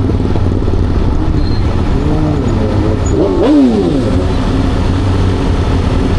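Aprilia Tuono V4 motorcycle's V4 engine heard onboard, running steadily at low revs, with a few short rises and falls in pitch about two to four seconds in.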